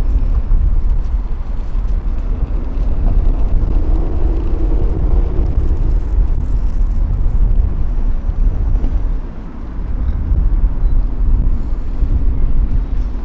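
Outdoor city street ambience with a heavy, steady low rumble and a faint murmur above it, dipping briefly about nine seconds in.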